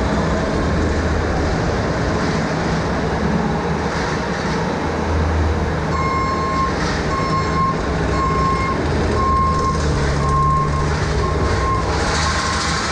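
Heavy vehicle engine running steadily, with a backup alarm beeping about once a second through the second half: a machine reversing.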